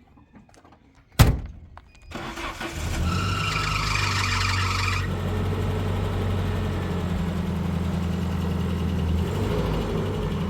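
A car door shuts with a single thud, then about a second later a car engine starts and runs at a steady idle, with a higher whine over it for the first few seconds.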